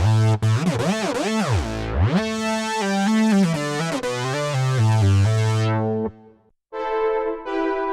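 Sequential Take 5 analog synthesizer playing presets. First comes a patch with repeating swooping filter sweeps, then a bright line of held notes; it cuts off about six seconds in, and after a short gap a softer, keyboard-like patch starts.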